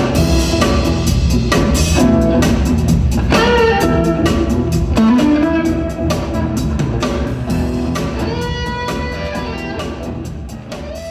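Instrumental blues music led by guitar with a drum kit, fading out gradually over the last few seconds.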